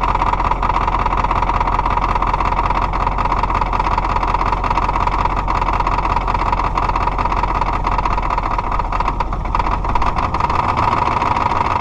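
Diesel engine idling steadily after a cold start; its low hum changes slightly about ten seconds in.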